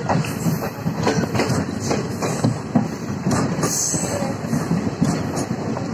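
Passenger train running slowly through a station, heard from on board: steady rumble with the wheels clattering irregularly over rail joints.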